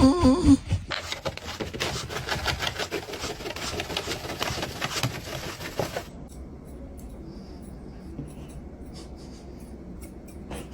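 Rapid scratching and rubbing in a dog's fur, dense for about five seconds, then faint, occasional scratches.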